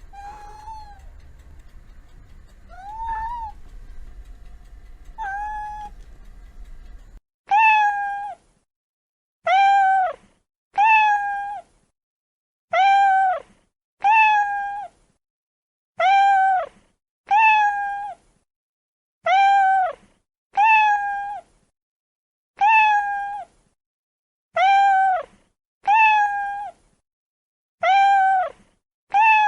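Domestic cat meowing over and over. Three meows over a low background hum, then from about seven seconds the same meow repeated roughly every second and a half, about fourteen times, with silence between.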